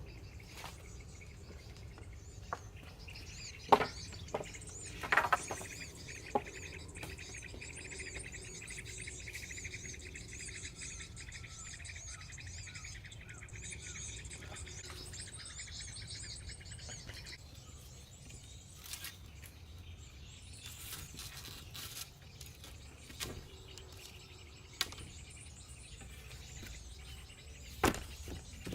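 Forest birds chirping and calling, with insects, over a steady low background hum. A few sharp knocks or clicks cut through, the loudest about four and five seconds in and again near the end.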